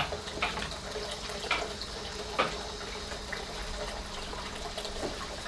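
Liquid jelly mixture being poured into containers: a faint steady trickle, with a few light clicks of kitchenware.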